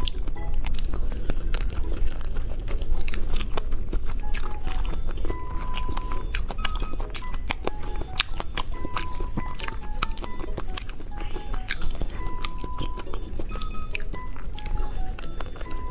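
Close-up mouth sounds of eating: wet chewing and biting with many small clicks, over light background music playing a simple melody of short notes.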